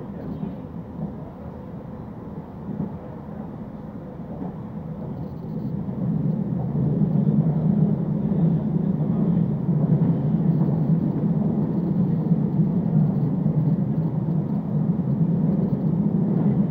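Running rumble of a moving train heard from inside the passenger carriage, growing louder about six seconds in and then holding steady.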